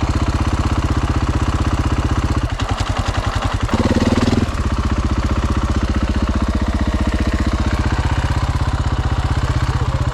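Dirt bike engine idling with steady, even firing pulses, broken by a brief uneven patch and a short throttle blip about four seconds in.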